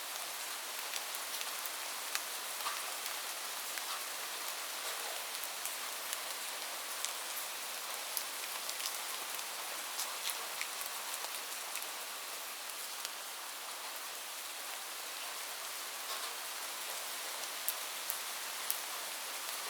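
Steady rain falling on a roof: an even hiss with many separate drops ticking sharply throughout.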